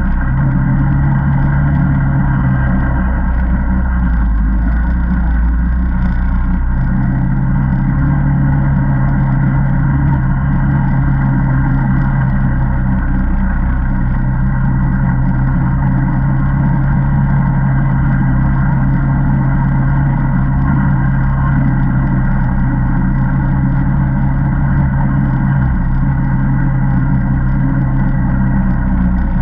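Single-cylinder four-stroke ATV engine running steadily on a trail ride, heard up close. Its note drops briefly a few seconds in and then settles back into an even drone.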